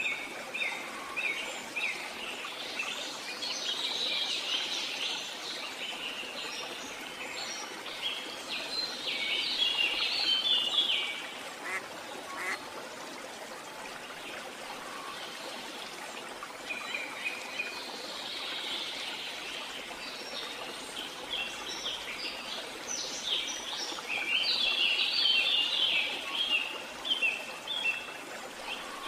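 Birds chirping and twittering in quick clusters that swell and fade every several seconds, over a steady hiss.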